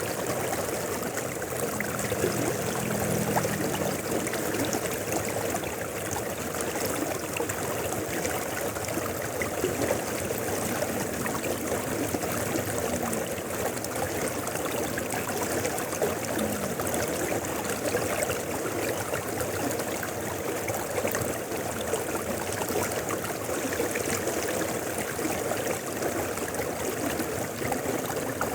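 Mountain river flowing: a steady, unbroken rush and babble of running water.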